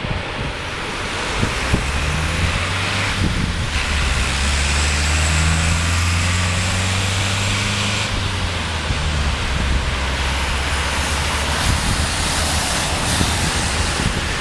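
Boeing 747 jet engines with a steady rumble during the landing roll. A strong low drone and a higher hiss swell from about two seconds in and ease off about eight seconds in.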